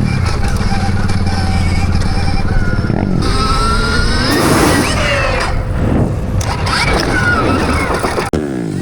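Motorcycle engine running, then revving up in rising sweeps twice, once around the middle and again later. The sound changes abruptly near the end.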